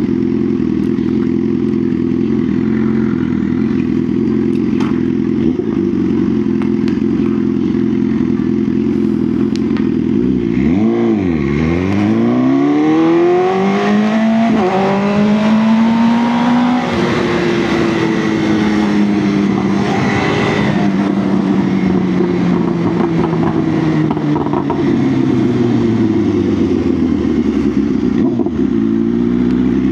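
BMW S1000R's inline-four engine holding a steady pitch for about ten seconds, then revving up hard about eleven seconds in with a gear change partway through the climb. It winds down slowly over the next ten seconds, then revs up again near the end.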